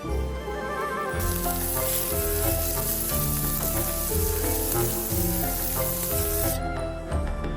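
Food sizzling in a hot pan, starting about a second in and cutting off suddenly near the end, over background music.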